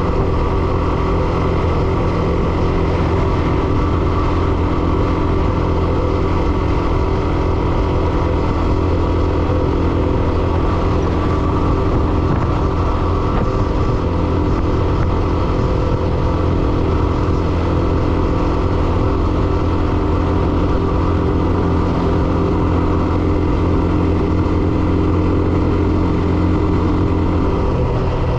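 Hero Xtreme 125R's single-cylinder engine running steadily under way, at an even engine speed throughout, with the engine note changing right at the end.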